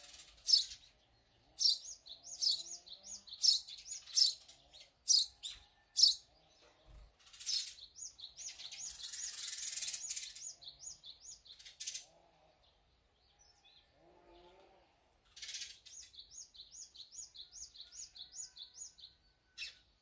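Small wild birds chirping and calling, with a string of sharp, loud high calls in the first half and a quick run of repeated high notes near the end. A brief rushing noise sounds around the middle.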